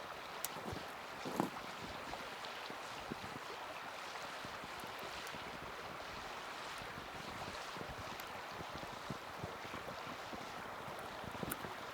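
Small wood fire in a mini fire stand burning with a steady rushing hiss and scattered sharp crackles and pops, the loudest pop about a second and a half in.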